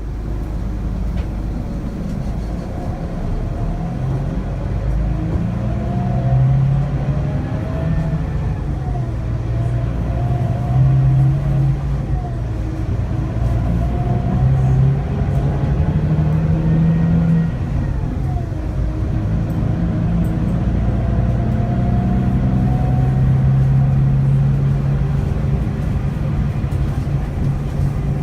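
Scania K360IB coach's five-cylinder diesel engine pulling under load, its note climbing and dropping back several times as it works up through the gears, with a whine that rises and falls alongside it.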